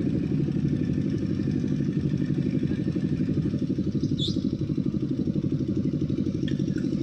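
A heavy vehicle's engine running steadily, with a fast, even pulse. A short, high rising chirp sounds about four seconds in.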